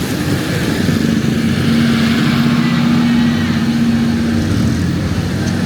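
Heavy rain on a city street with a motor vehicle's engine running close by, a steady hum that holds from about a second in until near the end.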